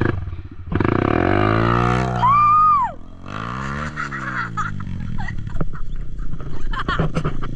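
Kawasaki KLX 140 dirt bike's single-cylinder four-stroke engine, fitted with a Big Gun exhaust, revving up and back down unevenly as an inexperienced rider works the throttle. A short high rising-and-falling tone sits over it about two seconds in.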